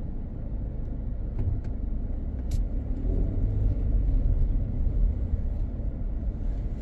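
Car driving along a road: a steady low rumble of engine and tyres, with one short click about two and a half seconds in.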